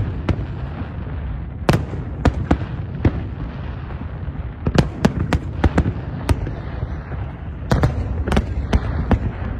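Fireworks going off: irregular sharp bangs over a continuous low rumble, with a quicker cluster of bangs in the last couple of seconds.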